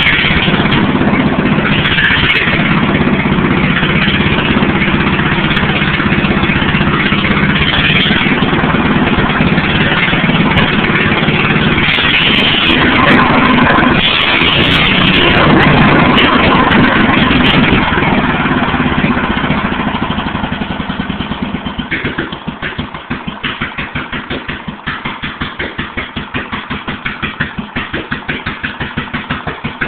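The unmuffled 1953 Briggs & Stratton Model 23, a single-cylinder engine of 23 cubic inches, runs loud and fast with its exhaust open to the air, revving higher in the middle. About twenty seconds in it slows to a low idle, each firing heard separately at about five a second.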